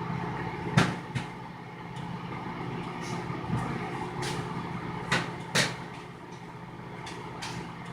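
Microwave oven running with a steady hum, with several sharp clicks and knocks of kitchen utensils on top.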